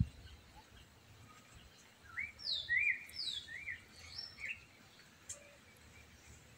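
A bird singing a quick run of six or seven high sliding notes, some falling and some curving up, about two seconds in, over a faint low outdoor rumble. A short low bump comes right at the start.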